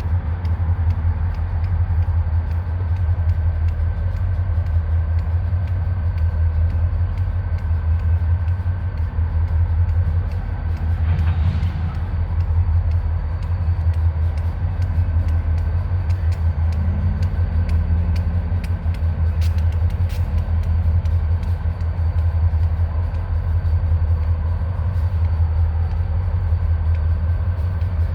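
Diesel freight train locomotive running with a loud, steady low rumble, with faint clicks throughout and a brief wavering change in pitch about two-thirds of the way through.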